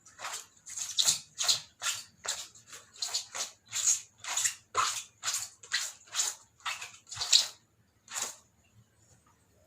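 Rhythmic scrubbing on washing-machine parts during cleaning, about two short strokes a second. It stops a little after eight seconds in.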